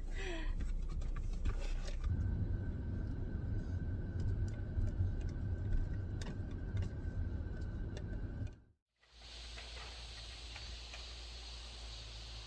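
Car cabin noise while driving: a steady low road rumble. About three-quarters of the way through it cuts off abruptly, and a quieter, steady outdoor hiss takes over.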